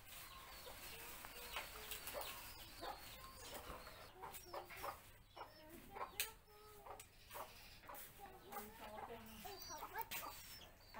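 Faint bird calls, short clucking and chirping notes, with scattered soft clicks of rabbits nibbling leaves.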